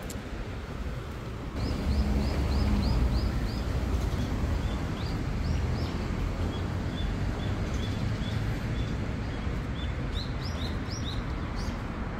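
A small songbird chirping: runs of short, rising chirps, about three a second, starting about a second and a half in and repeating through the rest. Underneath is a steady low rumble.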